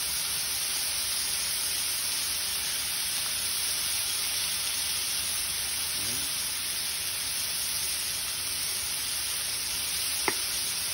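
Pork belly pieces sizzling steadily as they fry in a hot frying pan, with a single sharp click near the end.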